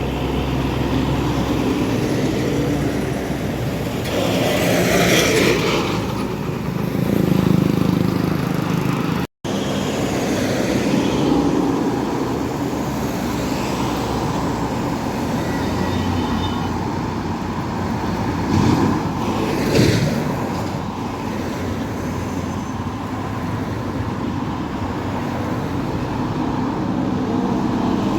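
Road traffic passing steadily, engines and tyres, with a vehicle going by close about four seconds in and another near nineteen seconds.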